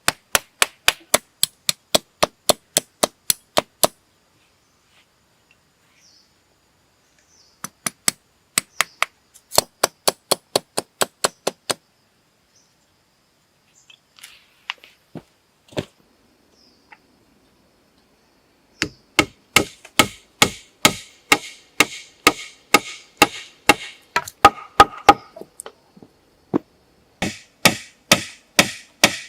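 Wood being chopped, sharp strokes about three a second in runs of a dozen or more, with pauses between the runs and a few lone knocks.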